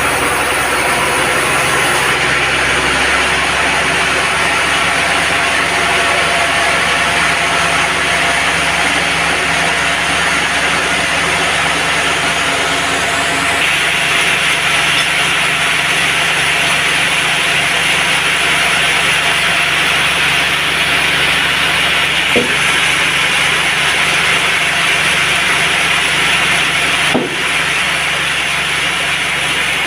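Band sawmill running steadily as its blade saws through teak wood. The sawing grows brighter and hissier about 13 seconds in, with two short knocks later on.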